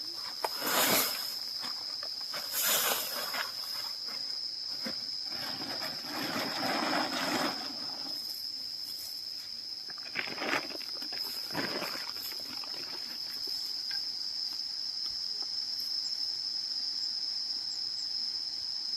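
Insects drone steadily on one high note throughout, with several brief rustles breaking over it.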